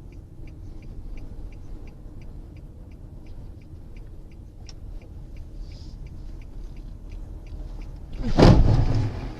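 Car running with a steady low road and engine rumble and faint regular ticking about three times a second, like a turn-signal relay. About eight seconds in, a loud burst of noise lasting about a second.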